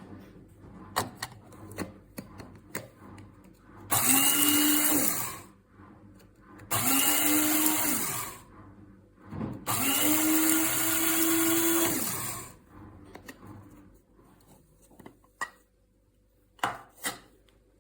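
Amazon Basics electric blade coffee grinder pulsed three times: the motor spins up, runs for a second or two, and winds down each time, with the last run the longest. Light clicks and knocks of handling come before and after the runs.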